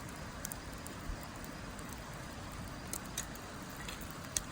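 Firewood burning in a fire pit, crackling with a few sharp pops, the loudest near the end, over a steady low rush.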